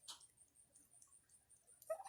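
Faint scattered clicking of turkeys pecking at food and a hand, with one short turkey cluck near the end.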